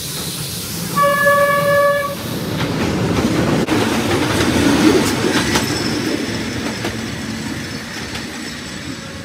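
Diesel train sounding a single horn blast of about a second, then passing close by: engine and wheels rumbling, with clicks over the rail joints. Loudest about five seconds in, fading as it moves away.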